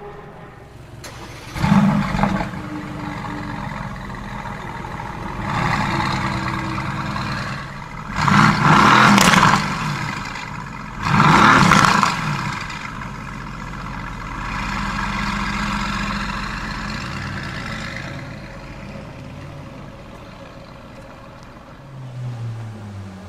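A supercar engine starting with a sudden loud flare about a second and a half in, then idling and being revved several times, the two loudest revs around nine and twelve seconds in, before settling back to a steady idle.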